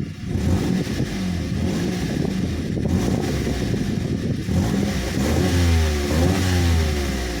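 Exhaust note of a Honda N-WGN (JH3) kei car's three-cylinder 660 cc engine, running fairly steadily at first, then revved up and down several times in quick blips in the second half.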